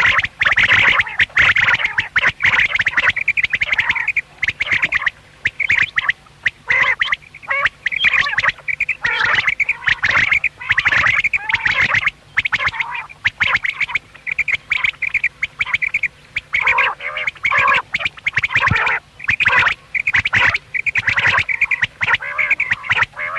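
Quails calling: a dense, loud run of short calls in quick succession, broken now and then by brief pauses.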